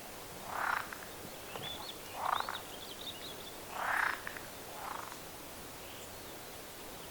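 A frog croaking: four short croaks spaced about one to two seconds apart, the last one fainter. Faint high chirps come in between the first and third croaks.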